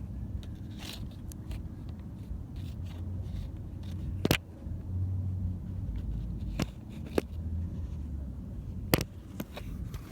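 A socket wrench on long extensions working the 10 mm bolt that holds a camshaft position sensor, making a few sharp separate clicks and scrapes over a low rumble of handling noise.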